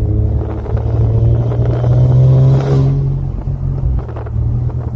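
Infiniti Red Sport's twin-turbo V6 and driveline heard from inside the cabin, rising in pitch as the car accelerates for about three seconds, then easing off. The car has a freshly installed, not yet broken-in polyurethane transmission mount, which lets more driveline whine and vibration through.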